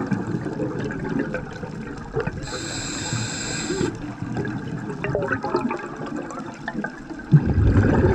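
Underwater sound recorded on a dive: a steady bubbling rush of water, with a louder surge of bubbles starting near the end, typical of a scuba diver's exhaled regulator bubbles. A high, steady whine is heard for about a second and a half, midway through.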